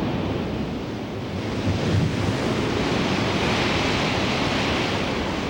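Wind and sea surf: a steady rushing noise that swells about three seconds in.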